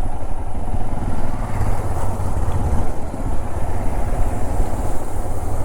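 Motorcycle engine running as the bike is ridden along a rough trail, a steady noisy rumble.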